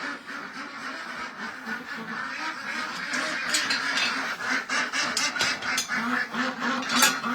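A group of domestic ducks quacking, a busy run of short, repeated calls that grows thicker about halfway through.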